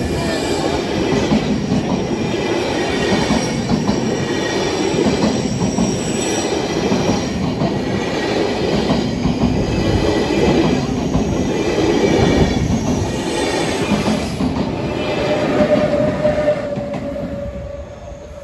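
A train passing close by: a steady rumble of wheels on the rails, with a thin high squeal from the wheels, dying away a second or so before the end.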